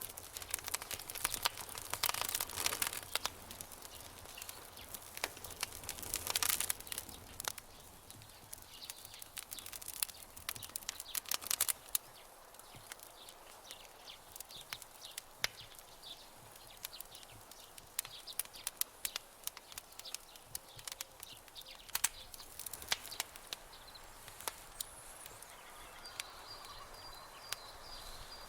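Campfire crackling: irregular sharp pops and snaps from burning wood over a soft hiss, busier in the first half. A faint high trill comes in near the end.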